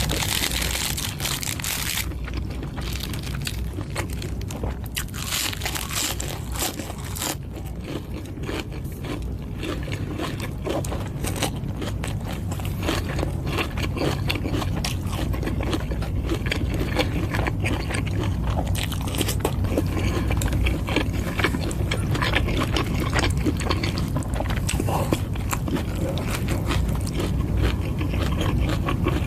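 Close-miked eating of Thai boat noodles: chewing and crunching with utensils scraping against the bowl, many small clicks throughout, over a steady low hum.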